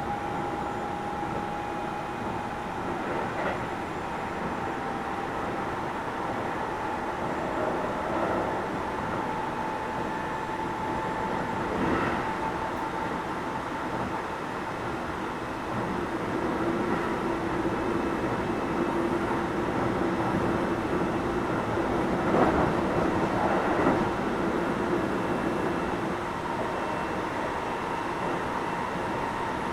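Keio 7000 series electric train running, heard from inside the car: a steady rumble of wheels on rail with a motor whine that drifts slowly up in pitch. A lower hum comes in about halfway through, and there are a few scattered knocks from rail joints.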